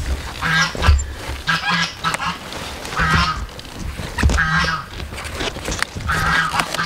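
A bird calling repeatedly, about five short calls a second or so apart, over low bumps and rustling of large cauliflower leaves being handled close to the microphone.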